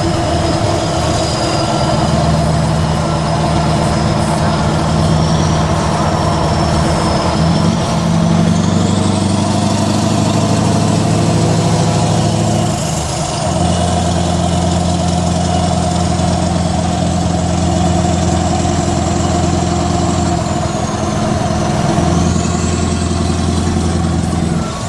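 Straight-piped Scania R500 V8 truck engine running under way. Its note changes about eight seconds in and dips briefly about thirteen seconds in before settling again. A thin high whistle rises and falls over it.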